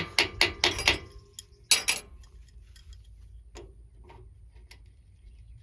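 Metal hand tools clicking and scraping against a hydraulic hose fitting while grime is cleaned off it. There is a quick run of sharp clicks in the first second, a louder scrape near two seconds, then scattered light clicks.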